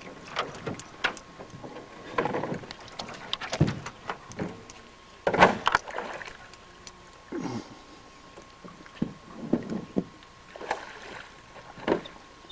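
Irregular knocks, bumps and scrapes against a canoe hull as people climb in and settle paddles and gear.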